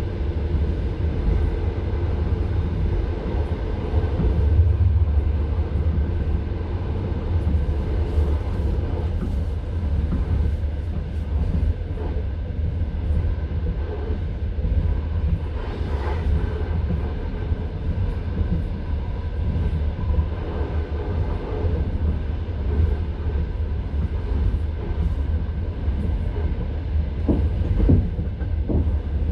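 Passenger train carriage running at speed, its wheels rumbling steadily on the rails, heard from inside the carriage. A few sharp wheel knocks come near the end.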